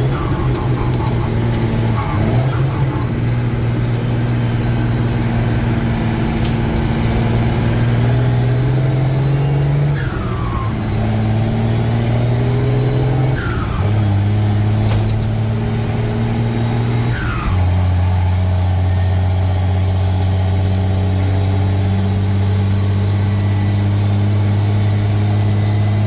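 Truck engine running under load. Its note rises and then drops in steps about ten, fourteen and seventeen seconds in, as with gear changes.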